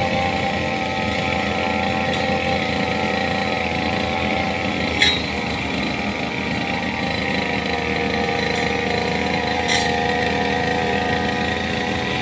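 Engine running steadily at a constant idle, with two sharp clicks about five and ten seconds in.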